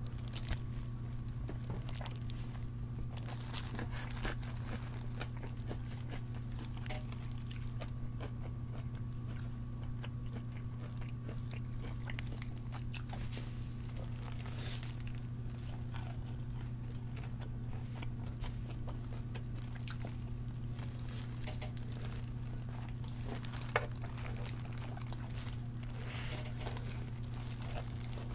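Close-up eating of crisp breaded fried chicken: irregular crunchy crackles of the coating as it is bitten and chewed, with one sharper crunch near the end. A steady low hum runs underneath.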